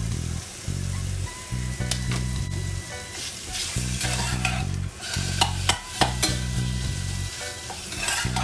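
Meat and cabbage sizzling in a small saucepan on a gas burner while a spatula stirs them, with several sharp scrapes and clicks against the pan about five to six seconds in. A low bass line of background music plays throughout.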